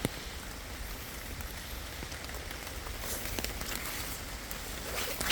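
Steady patter of rain, with a few light ticks about three seconds in and a sharper click at the very end.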